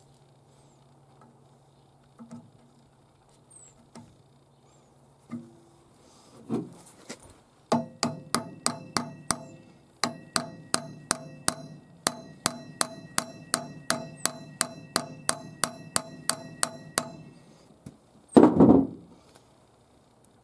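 A hammer striking the metal of a truck driveshaft's universal joint in a fast run of ringing blows, about three a second, with a short pause partway through. It ends with a single louder, longer clatter.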